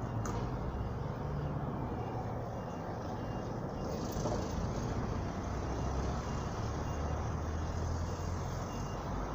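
Steady low rumble of a large vehicle's engine running.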